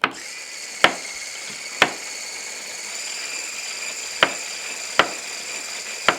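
Electric mixer switched on and running steadily, beating eggs and sugar, with its beaters knocking sharply against the bowl about five times.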